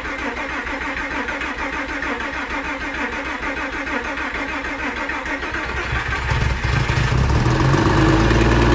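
A 2003 Porsche Boxster S 3.2-litre flat-six, just rebuilt after a main bearing failure, is cranked by its starter for its first start. At about six seconds it fires and catches, then runs on, louder and steady.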